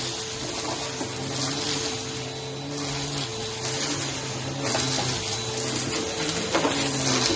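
Vacuum cleaner running on carpet, a steady rushing airflow with a constant motor whine.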